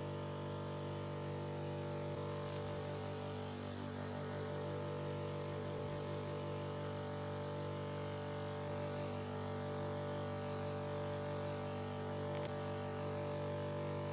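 A small electric motor running steadily with a constant buzzing hum, its pitch unchanging throughout.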